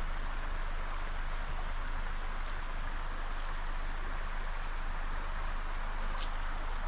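Crickets and other insects trilling steadily, one high continuous trill and another in short pulses about twice a second, over a steady rushing hiss.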